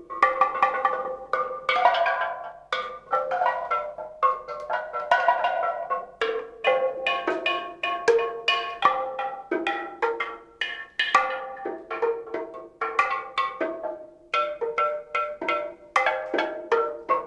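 Music on a tuned, struck percussion instrument of the kind reconstructed from prehistory: short ringing notes at several pitches, played in a quick, irregular run of strokes with no steady beat.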